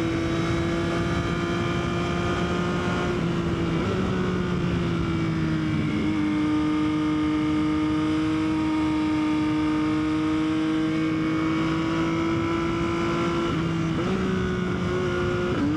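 Yamaha XSR900's three-cylinder engine running at a steady cruise with wind rush, its note dropping slightly a few seconds in and again about six seconds in, then rising near the end as the throttle changes.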